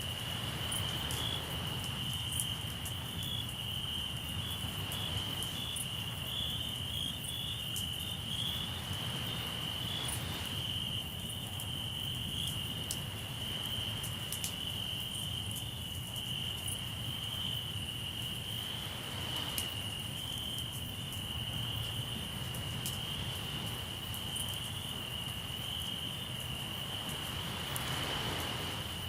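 Crickets chirping in a continuous high, pulsing trill, over the sharp irregular crackles of a campfire and a low steady rumble of the sea, with a wave washing in roughly every nine seconds.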